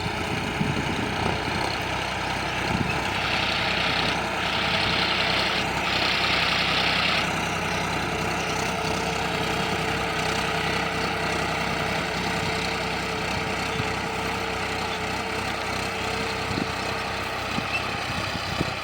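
John Deere tractor's diesel engine running steadily at idle. A hiss rises over it for a few seconds near the start.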